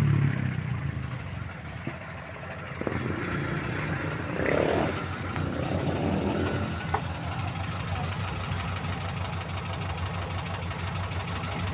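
Volkswagen Beetle's air-cooled flat-four engine idling steadily, with a motorcycle passing and fading away at the start.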